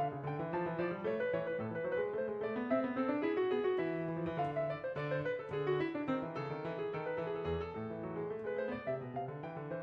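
Background piano music, a quick run of notes over a steady lower line.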